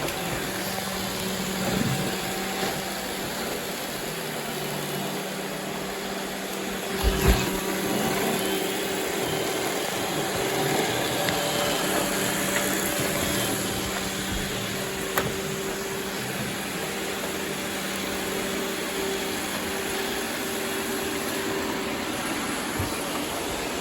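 Robot vacuum running steadily, its motor and brushes giving a constant hum while it cleans up confetti. A couple of short knocks come about seven seconds in.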